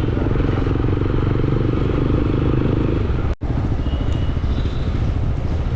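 Motorcycle engine running on the move, a steady low rumble. It drops out for an instant a little over halfway through, then carries on.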